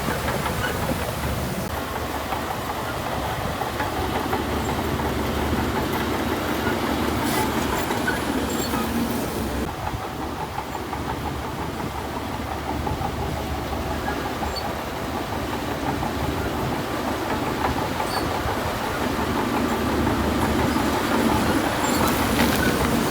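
Bulldozer's diesel engine running steadily, with a continuous rattling clatter.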